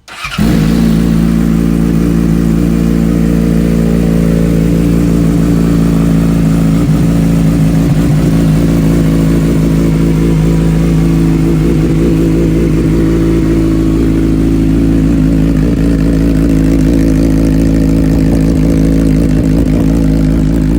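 A 2012 Yamaha R6's inline-four engine, with a Scorpion aftermarket exhaust, fires up at the very start and then idles loudly and steadily without revving.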